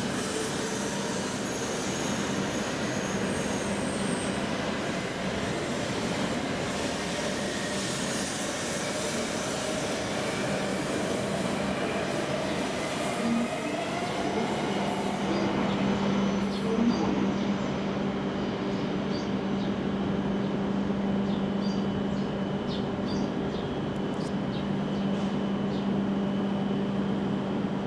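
Hokuriku Shinkansen train moving at low speed alongside the platform, its motor whine shifting in pitch over wheel and rail noise with some squeal. After about sixteen seconds it gives way to a steady electrical hum as the trainset stands at the platform.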